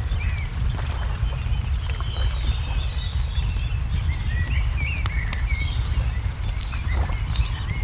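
Layered birdsong and fire ambience: small birds chirping and twittering, with scattered sharp pops and crackles of a wood fire, over a steady low rumble.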